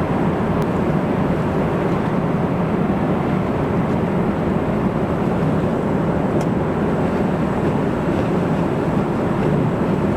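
Jet airliner cabin noise in flight: the steady rumble of engines and airflow heard from inside the cabin.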